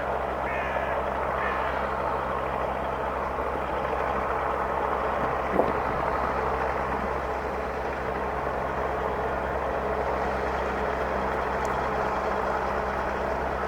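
Large ferry's diesel engines droning steadily, a low constant hum under a broad rushing noise, with one short knock about halfway through.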